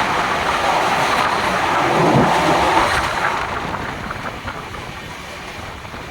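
Passenger train's wheels running on the rails, a steady loud rumble and rattle that swells about two seconds in and then fades away over the last few seconds.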